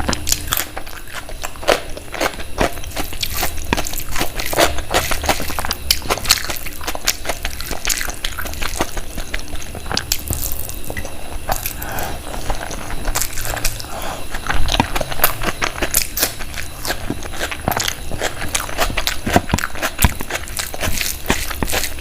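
A person eating a meal of bhature, chole and curries: close-up chewing with many irregular short mouth clicks and smacks.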